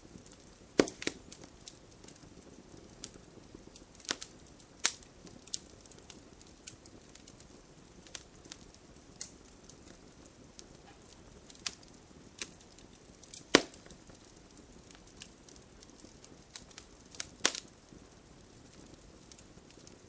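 Wood fire crackling, with scattered sharp pops over a faint steady hiss; the loudest pops come about a second in, about two-thirds of the way through, and near the end.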